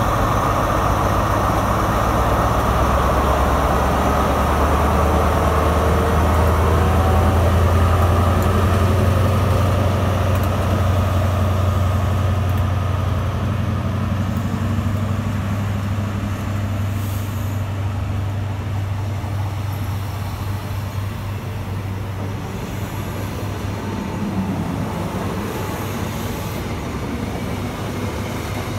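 High Speed Train passing close by: the Class 43 power car's diesel engine drones low, loudest in the first ten seconds or so, then the Mk3 coaches roll past with steady wheel and rail rumble.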